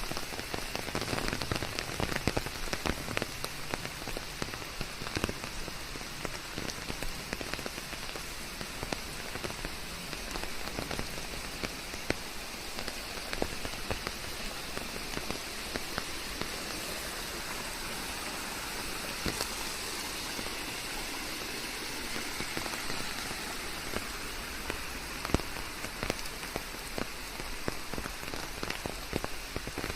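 Steady rain falling on leaves, an even hiss with many distinct drops pattering through it.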